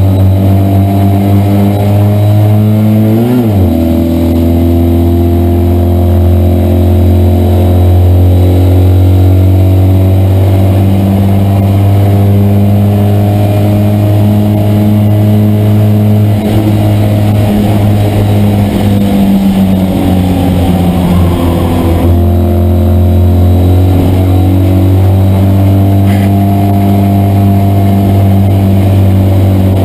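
Citroën 2CV race car's air-cooled flat-twin engine running hard at steady high revs, heard from inside the car. About three seconds in the pitch briefly rises and then drops.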